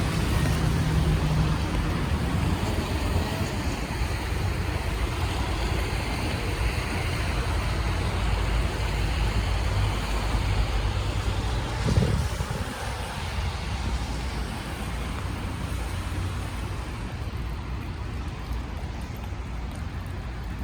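Rainy city street ambience: cars passing on wet road, with engine rumble and the hiss of tyres and rain. A single sharp thump a little past halfway, after which the traffic is somewhat quieter.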